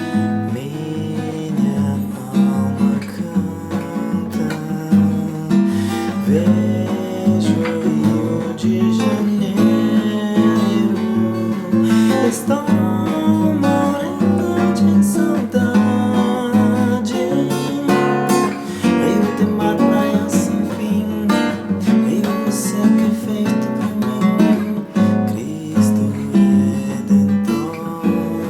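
Acoustic guitar strumming a samba chord accompaniment, played continuously as an instrumental introduction.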